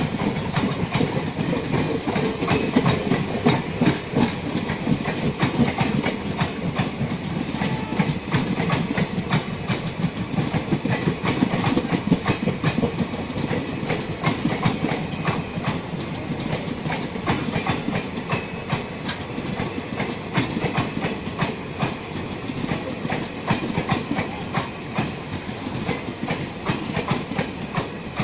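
A train running on the track: a steady rumble with rapid, continuous clicking of wheels over rail joints.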